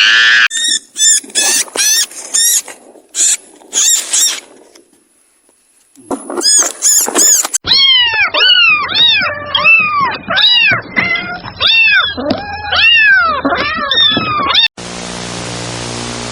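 A run of animal calls cut one after another: first short, high calls, then a lull, then many quick cries that each rise and fall in pitch. Near the end a steady hiss with a low hum takes over.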